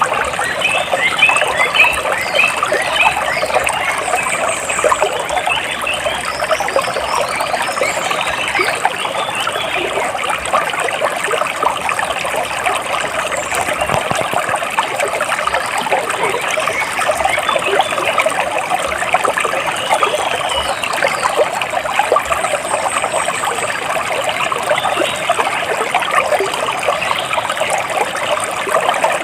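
Water trickling and splashing steadily, with a few brief bird chirps above it, mostly near the start.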